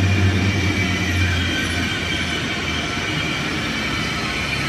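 ICE 3 (Class 406) high-speed electric train rolling slowly past along the platform: steady rolling noise with a faint high whine, and a low hum that fades out about a second and a half in.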